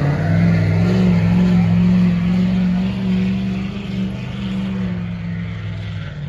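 Diesel pickup truck engine running at steady, high revs, easing off and getting quieter over the second half.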